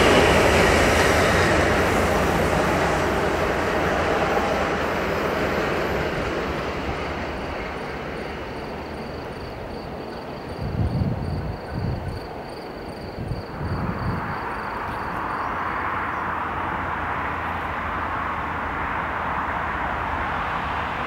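A freight train hauled by an electric locomotive runs past and fades away down the line, its rumble dying out over about ten seconds. After a few low thuds, a steady distant hiss of road traffic takes over.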